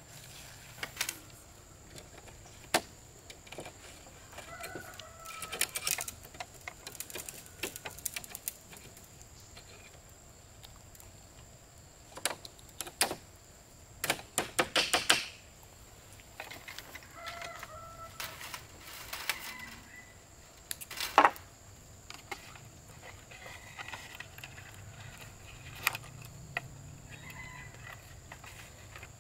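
Short bird calls several times, among scattered sharp clicks and knocks, the loudest a single knock about two-thirds of the way through. A steady high insect drone runs underneath.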